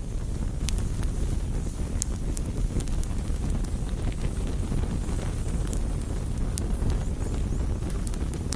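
Wood campfire burning: scattered sharp crackles and pops of the burning wood over a steady low rumble of flames and wind.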